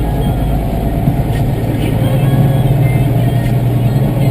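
Diesel tractor engine running steadily with a deep, even drone.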